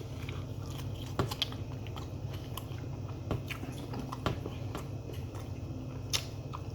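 A person chewing and eating close to the microphone, with scattered irregular clicks and smacks, over a steady low hum.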